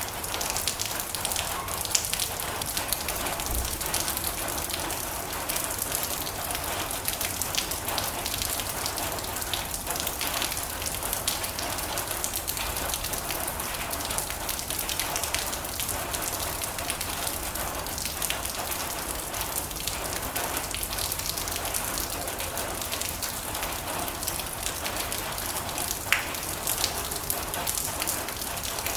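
Steady rain drumming on a metal roof: a dense, even patter of drops with a few louder single drop strikes.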